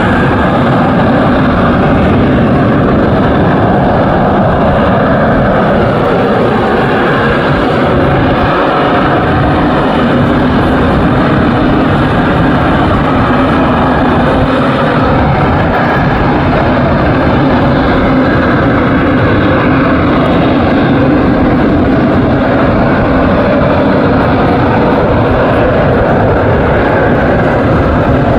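AV-8B Harrier's Rolls-Royce Pegasus turbofan engine, loud and steady, with no break in the jet noise.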